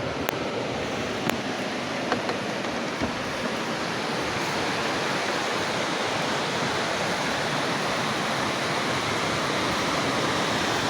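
Steady rush of fast-flowing river water, with a few small clicks in the first three seconds.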